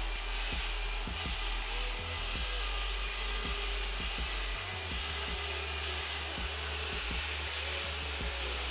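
Steady whooshing noise like a running blower, with a low hum that shifts about halfway through and scattered faint clicks.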